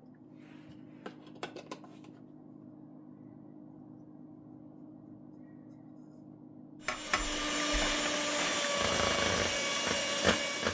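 A few light clicks, then about seven seconds in a small electric kitchen appliance motor starts, runs loudly and steadily for about four seconds, and stops.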